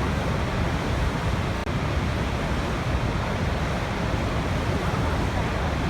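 Waterfall: steady rushing of falling water, an even noise heaviest in the low range, with a brief dip about one and a half seconds in.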